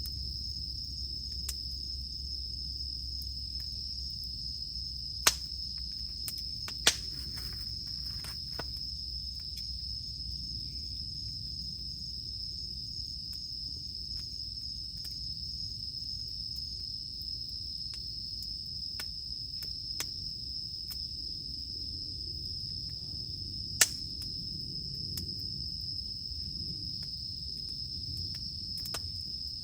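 Wood campfire burning with a low rumble and a few sharp crackling pops, the loudest about five seconds in, again a second and a half later, and near the end, over the steady high drone of cicadas.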